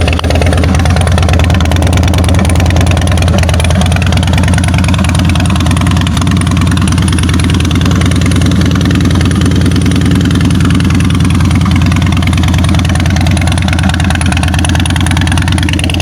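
2002 Harley-Davidson Softail Springer's Twin Cam 88B V-twin idling steadily through Vance & Hines Big Shot Staggered exhaust pipes, a loud, even, low-pitched pulsing exhaust note.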